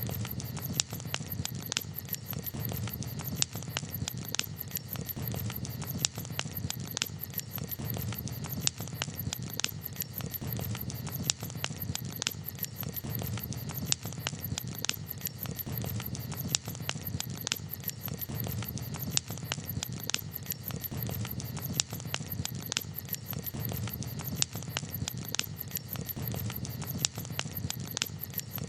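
Wood campfire crackling, with irregular sharp snaps several times a second over a steady low rush.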